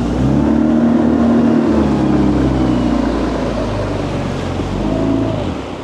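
Small boat's outboard motor running under way, its note rising, holding, falling, then dropping away near the end as the throttle comes back.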